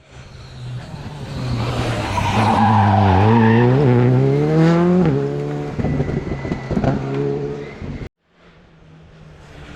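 Rally car engine at full throttle on a special stage, revs climbing and dropping sharply at each gear change as the car comes close and passes. The sound cuts off abruptly a little after eight seconds, and a second engine is then heard faintly, growing louder.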